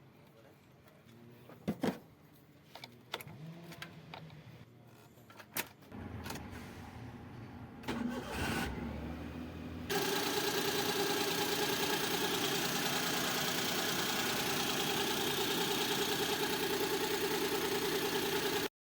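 A few scattered clicks and knocks, then an engine starting about six seconds in. About ten seconds in it settles into steady, even running and then cuts off suddenly near the end.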